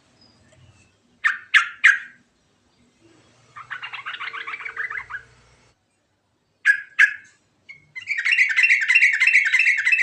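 Yellow-vented bulbul (trucukan) singing: three sharp notes, then a quick chattering phrase, two more sharp notes, and from about eight seconds in a long, fast, bubbling trill.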